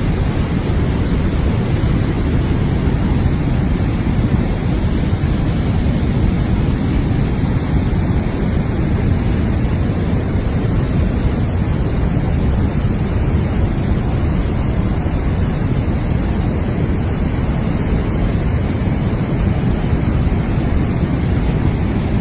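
Rain-swollen mountain stream in flood, its water rushing in a loud, steady, unbroken wash.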